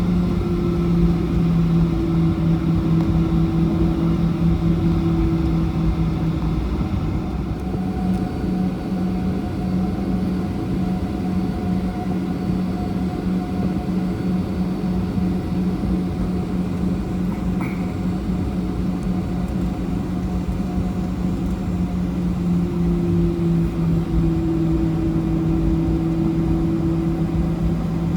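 Cabin noise of a Boeing 737-800 with its CFM56 jet engines at idle: a steady drone with a low hum and rumble, and a higher tone that fades out about six seconds in and returns near the end.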